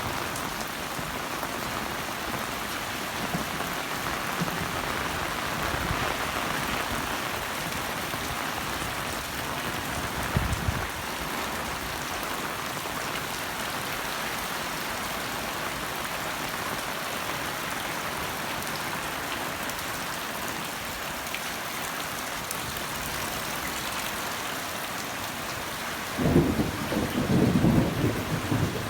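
Heavy rain falling steadily. A short low rumble comes about ten seconds in, and a louder, choppy low rumble starts near the end.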